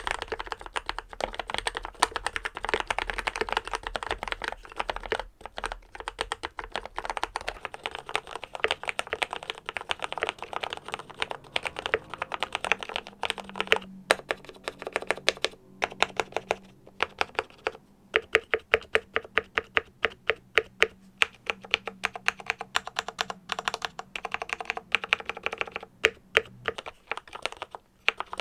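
Keychron K8 Retro mechanical keyboard being typed on steadily, a dense run of key clacks from switches that have been lubed, in a case fitted with sound-dampening foam. Lubed brown tactile switches are heard first, then lubed black linear switches.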